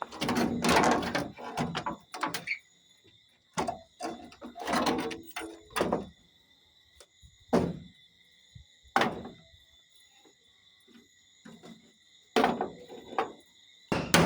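Irregular knocks and bangs of hand work, spaced a second or two apart, with a steady high trilling of night insects underneath.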